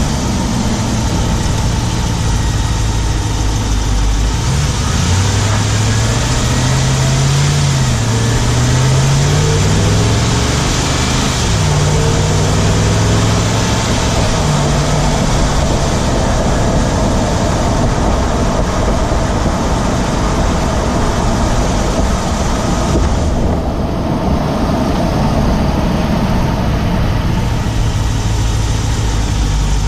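Ram 1500 Hemi V8 heard from inside the engine bay, on the driver's side, while driving. The engine note rises and falls between about 5 and 15 seconds in, then holds steady over heavy road and engine-bay noise. A ticking under the hood is there too, which the owner asks about as possibly the "Hemi tick" or something else.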